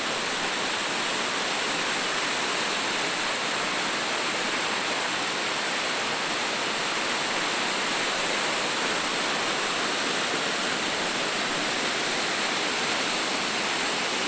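Waterfall pouring: a steady, unbroken rush of falling water that holds an even level throughout.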